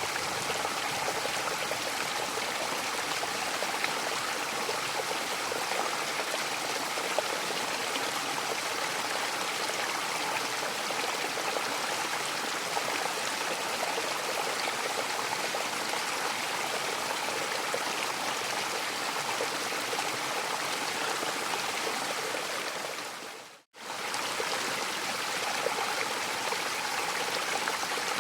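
Waterfall rushing steadily, an even wash of falling water. About three-quarters of the way through it fades out to silence for a moment and fades back in.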